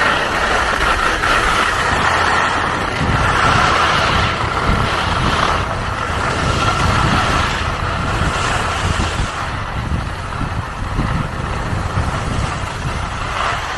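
Wind rushing over the microphone during a downhill ski run, with the skis sliding on soft snow: a continuous loud rush with no separate events.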